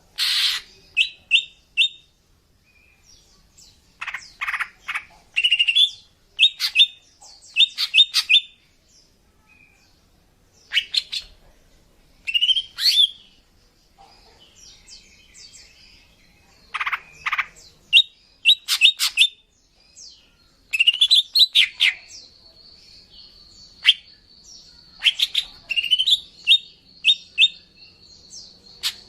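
Female green leafbird (cucak ijo) calling in short bursts of sharp chirps and quick trills, separated by pauses. This is the call used as a lure for males. A steady high whistle-like tone runs under the calls in the second half.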